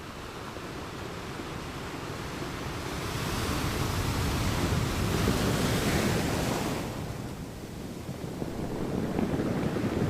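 Ocean waves on a shore: a wave builds, washes in loudest around the middle, and falls away, with the next wave rising near the end.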